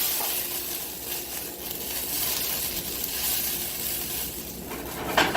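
Red wine sauce bubbling and sizzling in a hot pan as it reduces. Near the end there are a few sharp clicks.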